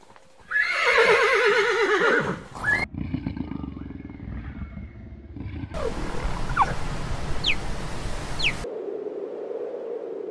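A horse whinnying: one loud, wavering call lasting about two seconds. After abrupt cuts come quieter outdoor sound with a few short high chirps, and then a steady low drone.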